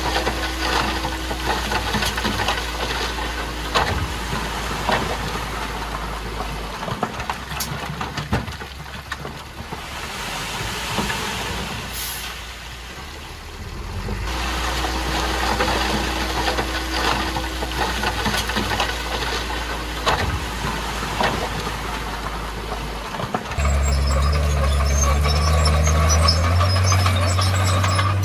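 Heavy diesel bulldozer engine running, with scattered metallic knocks. It eases off briefly near the middle, then about 23 seconds in grows louder and steps up in pitch as it revs.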